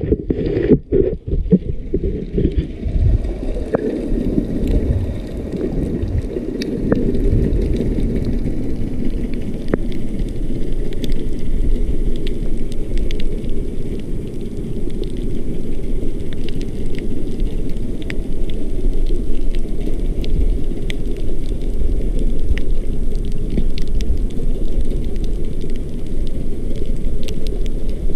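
Underwater ambience on a coral reef: a steady low rush and rumble of water, with faint scattered clicks throughout. The sound cuts in and out a few times in the first two seconds, then settles.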